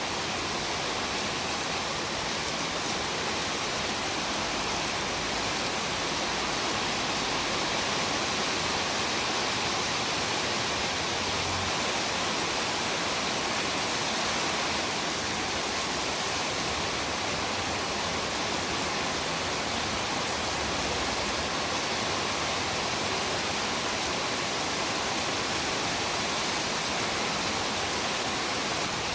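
Heavy rain falling in a steady, dense hiss, with no distinct drops or thunder standing out.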